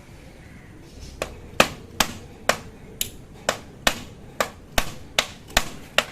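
Hammer driving nails into the wooden frame of a bird cage: a quiet second, then a steady run of about a dozen sharp strikes, two to three a second.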